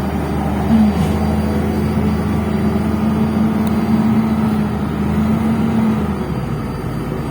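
Engine and drivetrain of a MAZ-105 articulated city bus heard from inside the cabin while under way: a steady low drone that rises slightly about a second in, holds, and drops away about six seconds in as the bus eases off.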